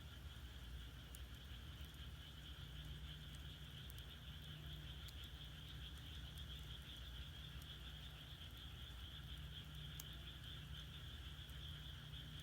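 A faint, steady chorus of frogs calling in the background, with a few soft crackles from firewood burning in an agungi (a traditional Korean firebox) and a low rumble of the fire.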